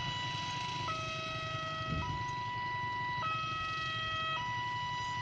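Railway level-crossing warning alarm sounding: two tones alternate, a lower and a higher, each held a little over a second. A steady low rumble runs underneath.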